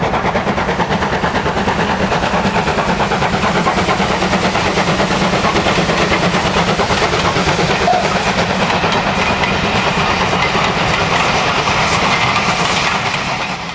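Steam locomotive running, with a rapid, even chuffing rhythm over a steady hiss, fading out near the end.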